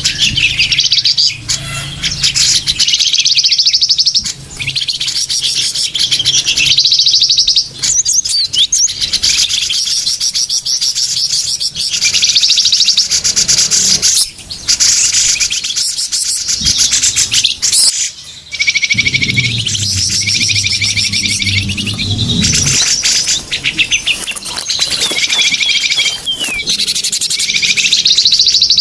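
Dense, nearly unbroken twittering and chirping of many small birds, with fast trilled phrases overlapping: a small-bird lure (pikat) call meant to draw curious birds in.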